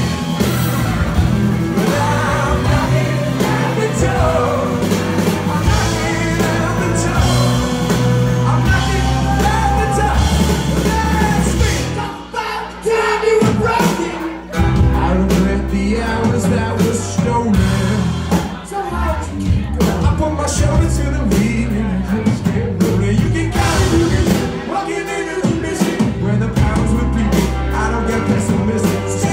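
Live rock band playing at full volume, with drums, bass and guitars and some vocals over them. The full band drops out briefly about halfway through, then comes back in.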